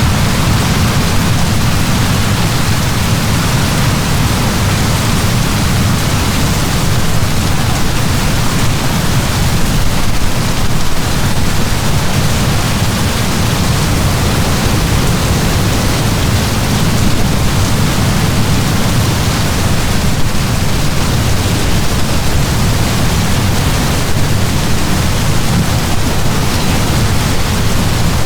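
Heavy rain falling in a steady, dense downpour, a constant loud hiss with a deep rumble underneath.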